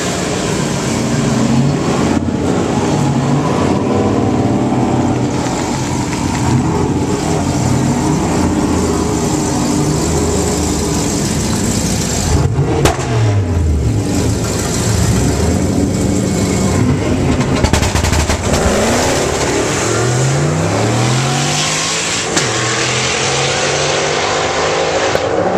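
Supercharged Ford Lightning pickup's V8 and a Pontiac Trans Am revving hard at the drag strip start line, engine pitch rising and falling. Near the end they launch, and the engine note climbs steeply through the gears.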